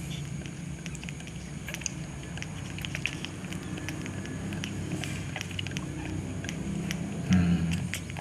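Baby monkey sucking hard on a milk bottle: a quick, irregular run of small wet clicks and smacks over a steady low hum, with a brief louder low sound near the end.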